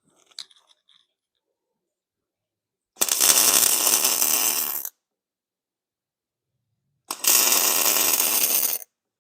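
Two bursts of arc welding crackle, each about two seconds long, as bolts are tacked to a steel plate.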